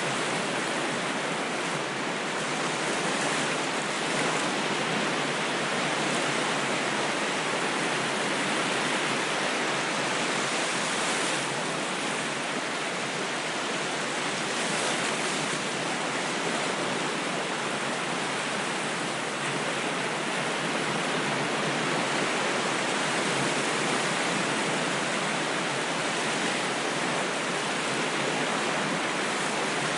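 Ocean waves washing in a continuous, even rush of water noise with only slight swells and no distinct breaking surges.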